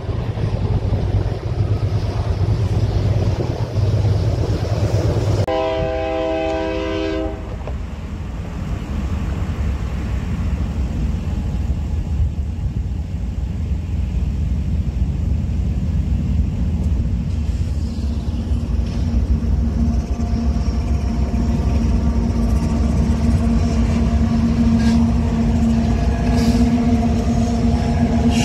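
Wind on the microphone, then one short blast of a freight train's diesel locomotive air horn, a chord of several notes, about five seconds in. After it the low rumble of a BNSF manifest freight train builds as it passes, with the steady hum of a BNSF diesel locomotive's engine in the second half.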